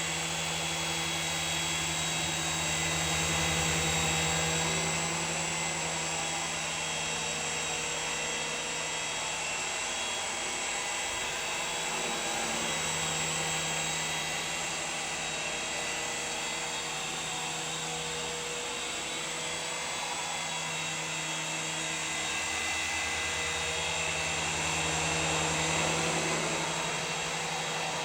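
Skytech M3 toy remote-control helicopter's small electric motors whining steadily with its rotors humming. The low rotor hum swells and eases a few times.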